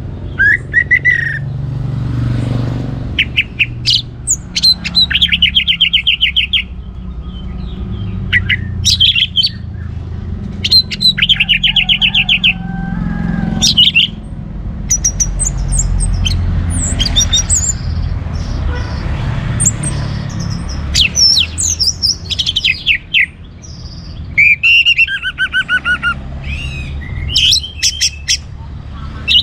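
Orange-headed thrush singing a loud, varied song: quick phrases of fast rattling trills and sharp falling whistles, with short pauses between them, over a steady low rumble.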